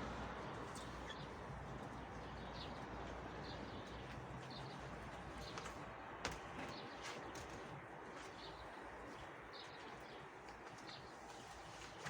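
Faint short, high bird chirps repeating about once or twice a second over a steady background hiss, with a single sharp click a little past halfway.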